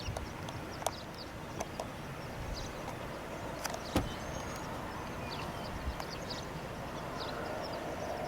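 Outdoor storm ambience: a steady rush of wind noise that builds slightly toward the end, with scattered faint high chirps and a few sharp clicks, the clearest about four seconds in.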